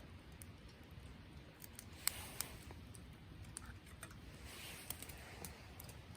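Faint scattered clicks and light taps, the two sharpest close together about two seconds in, over a low steady rumble.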